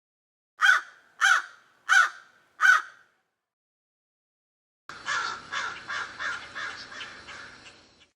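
Crow cawing: four harsh caws about two-thirds of a second apart, then after a pause a quicker run of caws that fades away near the end.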